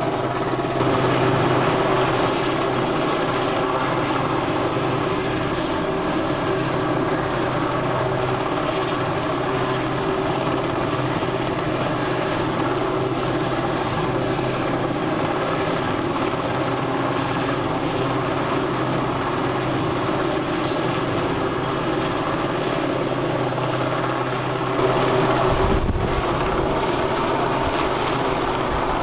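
RAF rescue helicopter running steadily, its rotor and engine drone holding an even pitch, a little louder about a second in and again near the end.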